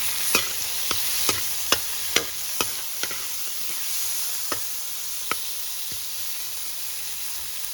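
Tomato and chopped seasoning sizzling steadily in hot oil in a pan, frying down. A stirring utensil clicks against the pan about twice a second for the first three seconds, then twice more further on.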